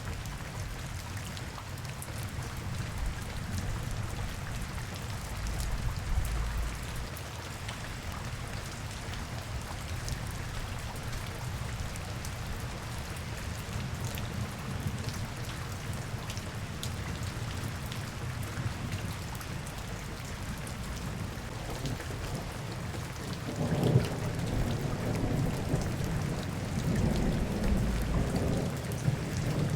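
Steady rain falling in a city street, with fine drop ticks throughout. A low rumble swells about three quarters of the way in and goes on to the end.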